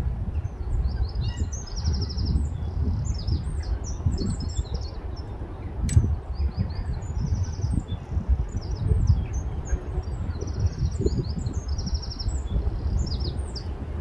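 Several small birds chirping and trilling high-pitched, with quick notes and short rattling runs. Wind gusts on the microphone make a low rumble, the loudest thing heard. A single sharp click comes about six seconds in.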